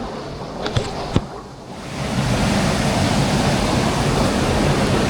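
Rushing water of a stream by the waterfall trail, a steady hiss that swells louder about two seconds in, with two sharp knocks in the first second or so.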